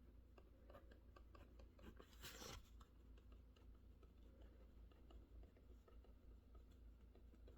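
Faint, sparse clicks and taps of quiet desk work, with a brief scratchy rustle about two seconds in, over a low steady hum.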